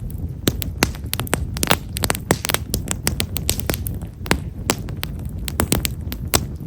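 Wood fire of himeshara (tall stewartia) logs crackling with many small, sharp pops coming irregularly, several a second, over a steady low rumble of the flames.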